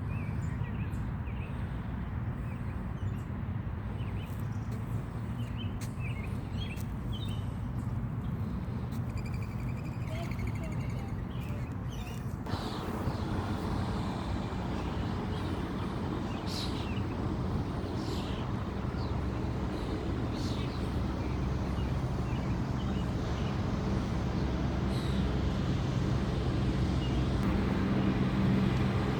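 Outdoor ambience: a steady low rumble, with faint, scattered chirps from small birds. A wider rushing noise comes in suddenly about twelve seconds in and slowly grows louder.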